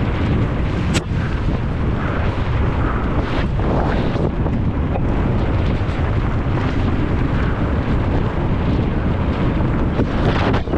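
Heavy wind rumble on the rider's camera microphone as a mountain bike descends at speed, with the bike rattling over rough ground and a sharp knock about a second in.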